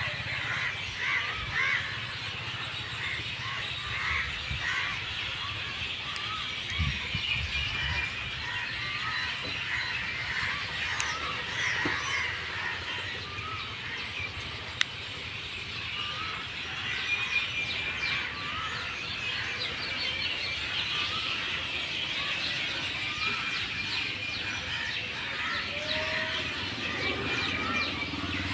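A flock of birds chirping, many short calls overlapping in a continuous chorus, with a single sharp click about halfway through.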